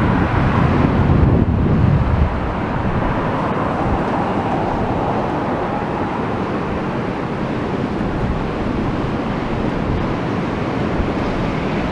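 Wind buffeting the microphone, heaviest in the first couple of seconds, over a steady rush of rough sea surf.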